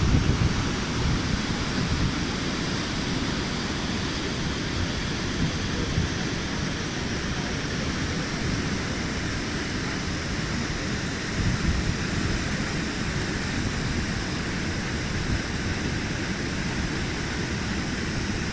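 Steady rush of a large waterfall, Howick Falls, pouring down into its gorge. Wind buffets the microphone in short gusts near the start and again about two-thirds of the way through.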